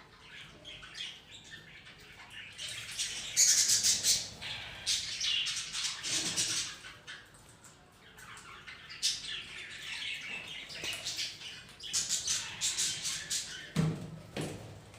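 Pet parrot and budgerigars squawking and chattering in bursts, over rapid clicking. A short low thump sounds near the end.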